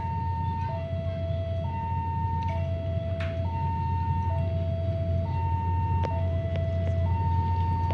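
Railway level-crossing warning alarm sounding, alternating between a higher and a lower tone, each held just under a second. Under it is a steady low rumble that grows slowly louder.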